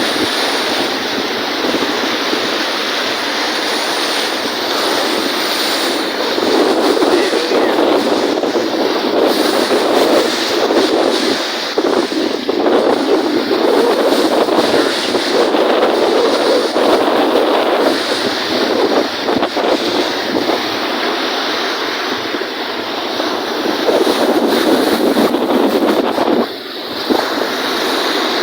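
Strong wind rushing and buffeting against the microphone over lake waves washing in, swelling and easing every few seconds, with a brief lull near the end.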